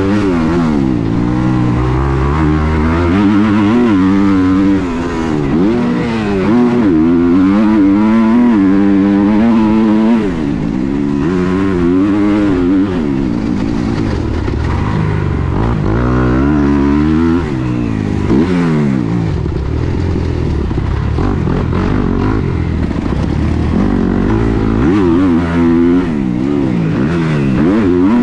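Dirt bike engine heard from on board while riding a motocross track, its pitch rising and falling over and over as the throttle is opened and closed, with brief dips where it backs off.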